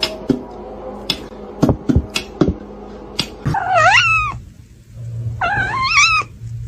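A few sharp taps or clicks, then a cat gives two drawn-out, wavering yowls about two seconds apart.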